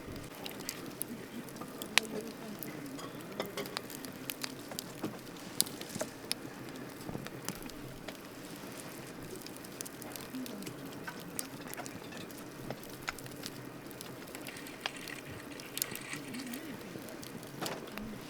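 Wood campfire crackling: irregular sharp pops and snaps over a steady soft hiss of burning, with one louder snap about two seconds in.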